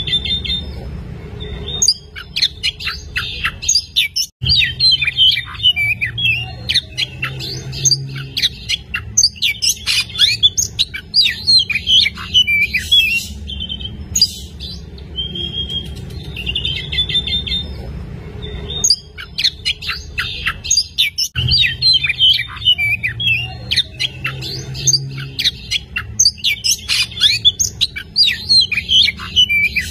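Oriental magpie-robin (kacer) singing a loud, varied stream of chirps, whistles and rapid trills with brief pauses. The same passage repeats about every 17 seconds, as a looped recording.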